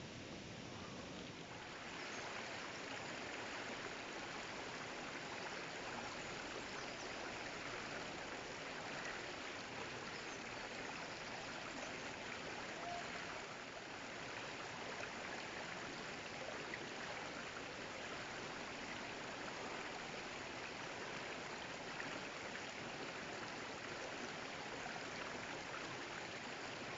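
Steady rushing of a stream's running water, getting a little louder about two seconds in.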